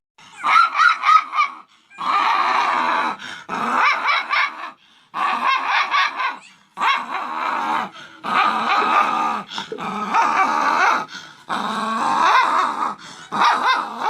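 A dog talking back with a run of long, wavering grumbles and howl-like complaints, each a second or two long, with short breaks between them.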